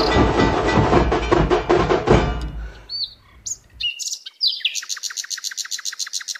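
Background music with a steady percussive beat fades out about two and a half seconds in. Bird calls follow: a few short chirps, then a fast run of sharp repeated notes, about nine a second, that stops near the end.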